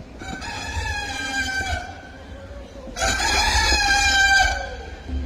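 A rooster crowing twice, each crow a long call of about a second and a half, the second louder than the first.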